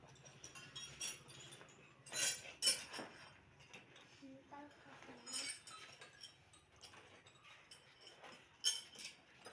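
Small hard objects, likely metal parts or tools, clinking and tapping against each other while being handled, with sharper knocks a little after two seconds in, once in the middle and near the end.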